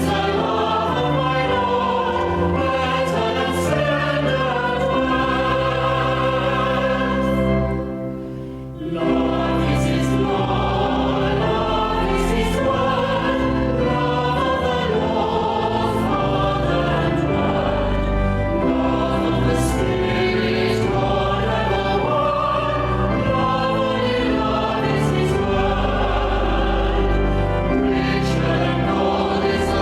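Choir singing a slow, sustained choral piece, with a brief break about eight seconds in.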